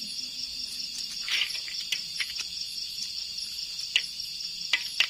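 Steady chorus of night insects, a high pulsing chirr, with a few short sharp clicks over it; the loudest clicks come about four and five seconds in.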